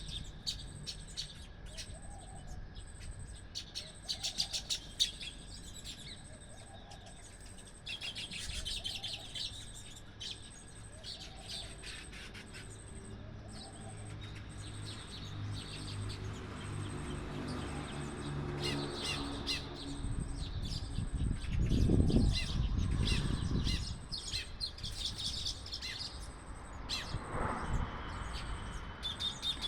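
Many small birds chirping and twittering in quick high notes, with a lower call repeating about every second and a half through the first third. A low rumble swells about two-thirds of the way in and is the loudest moment.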